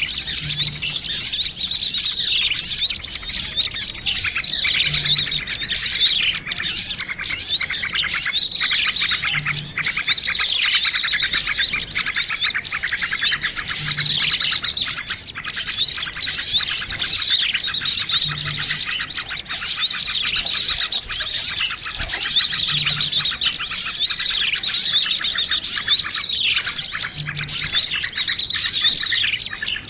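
A dense, unbroken chorus of many small birds chirping and trilling rapidly over one another: a compiled bird-lure recording (suara pikat) meant to draw small birds in.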